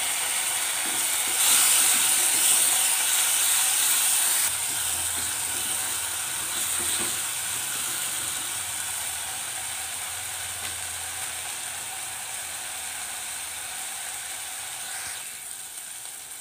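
Masala sizzling in hot oil in a pan as a little water is added; the sizzle jumps louder about a second and a half in, then slowly dies down.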